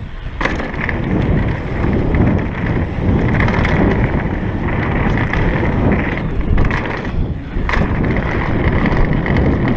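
Downhill mountain bike rolling fast down a dirt trail: steady tyre rumble and bike rattle with wind on the microphone, broken by a few sharp clatters of impacts, one near the start and two more about seven and eight seconds in.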